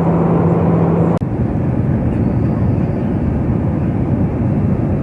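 Steady roar of an airliner in flight, with a steady hum under it. About a second in, the hum stops at an abrupt cut, and a duller steady roar continues.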